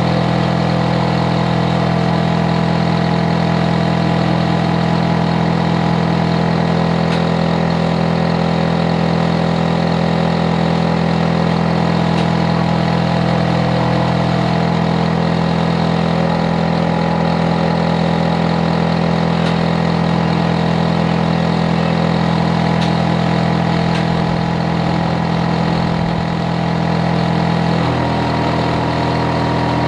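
Hitachi air conditioner outdoor unit running, a loud, steady hum of several low tones from its compressor and fan. Near the end the hum shifts slightly in pitch.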